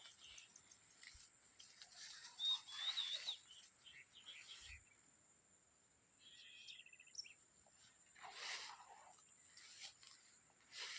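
Faint bird calls: two short warbling phrases a few seconds apart, the first about two and a half seconds in and the second about six and a half seconds in, over a steady high-pitched tone.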